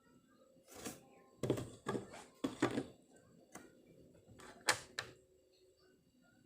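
A series of irregular knocks and clatters, about eight in all, some in quick pairs, the sharpest a little under five seconds in.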